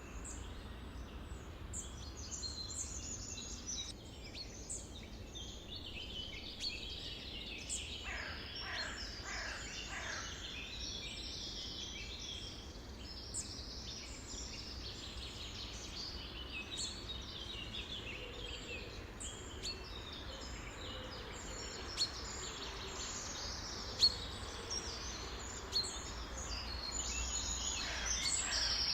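A chorus of many songbirds chirping and calling over one another. About eight seconds in comes a run of several falling whistled notes, and later there are a few sharp clicks.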